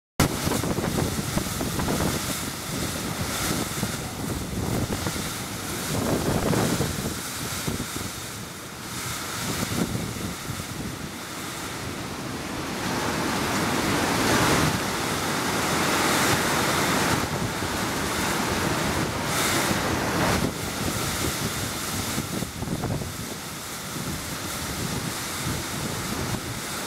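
Typhoon-force wind blowing in gusts, swelling and easing again several times, with the strongest surge about halfway through.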